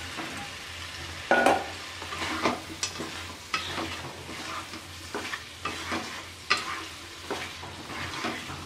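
Potatoes, spice paste and fried rohu fish heads sizzling in oil in a wok (karahi), stirred with a wooden spatula that scrapes and knocks against the pan in irregular strokes, the loudest about a second in.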